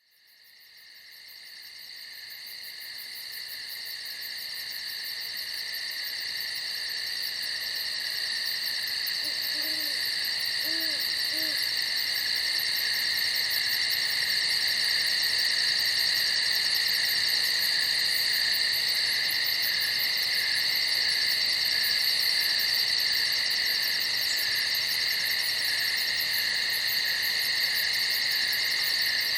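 A dense night chorus of crickets trilling steadily, fading in from silence over the first several seconds. A few short, low hoots come about ten seconds in.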